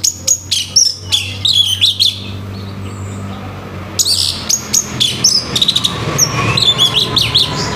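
Orange-headed thrush (anis merah) singing loudly in two bursts of quick, varied whistled notes, with a short pause between them; the second burst starts about four seconds in.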